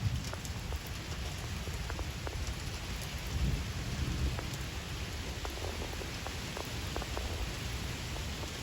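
Steady rain falling, with scattered drops ticking on a surface and a low, uneven rumble underneath that swells a few seconds in.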